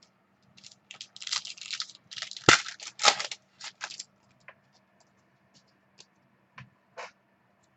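A pack of football trading cards being opened and the cards handled: about three seconds of crinkling and rustling, then a few scattered light clicks.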